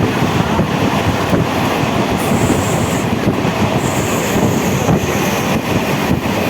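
MEMU electric train running at speed, heard from inside the coach: a steady rumble of the running gear with irregular knocks of wheels over rail joints. A thin, high squeal comes in twice, about two and four seconds in.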